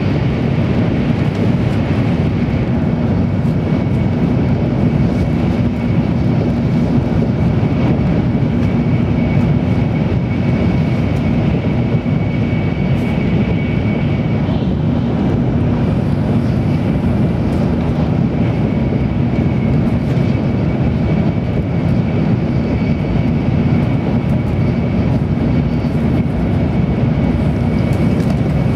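Cabin noise inside a Tokaido Shinkansen N700 series passenger car running at speed: a steady rumble of wheels, track and air, with a faint steady high tone over it.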